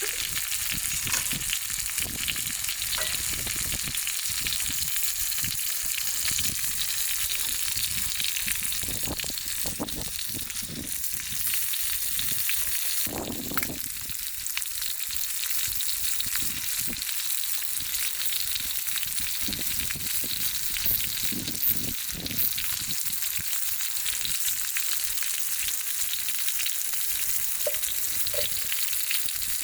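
Food frying in a hot pan over a wood fire: a steady sizzle with scattered small pops.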